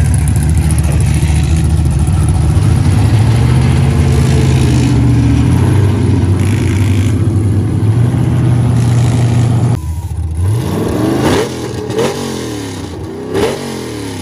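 A loud car engine running at a steady speed, cut off suddenly about ten seconds in; then a drag car engine is revved several times, its pitch rising and falling with each rev.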